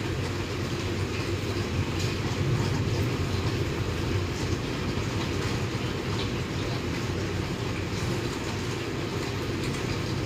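Steady rain falling, an even hiss with faint scattered drips, over a continuous low rumble.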